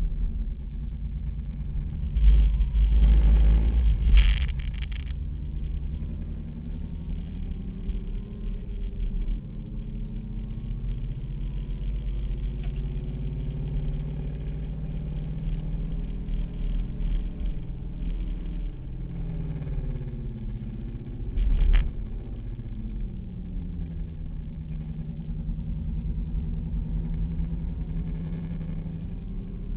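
Opel Corsa's engine heard from inside the cabin as the car is driven hard around a circuit, its revs climbing and falling through the gears. Two louder low rumbles stand out, one a few seconds in lasting about two seconds and a shorter one about two-thirds of the way through.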